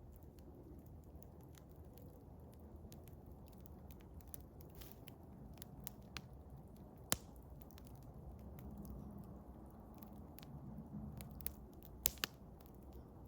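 Eastern hemlock wood fire crackling: scattered sharp pops and snaps over a soft, steady low background. A single loud pop comes about seven seconds in and two more near the end.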